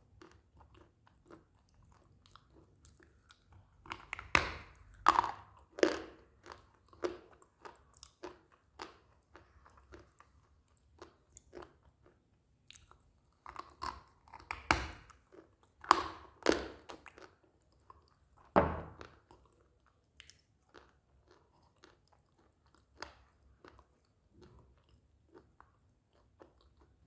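Close-up biting and chewing of hard pieces of baked clay, each bite a sharp crunch. The crunches come irregularly, with two loud clusters in the first and second thirds and one last hard bite before smaller crunches trail off.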